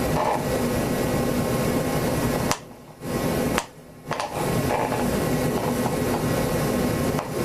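Electric starter spinning the micro mini tractor's glow-plug, nitromethane-fuelled engine in a start attempt, a steady high whirring that stops and restarts twice in quick succession about two and a half and three and a half seconds in. The engine had been stuck with gelled old fuel and has only just been loosened.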